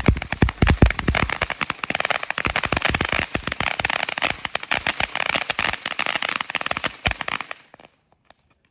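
Game Mode firework fountain by TNT Fireworks in its crackle stage: a dense, rapid string of crackling pops, with a few heavier bangs in the first second, dying out about seven and a half seconds in.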